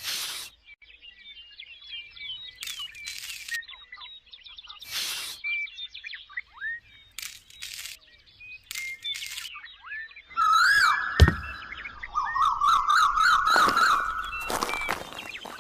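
Small birds chirping, broken by several short bursts of noise; about ten seconds in, a louder warbling call starts and runs for a few seconds.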